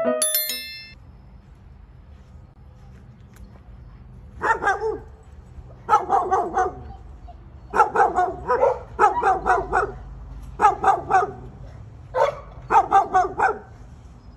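A few piano notes ring out at the start. About four seconds in, a dog starts barking in quick bursts of three to five barks, repeated every second or two.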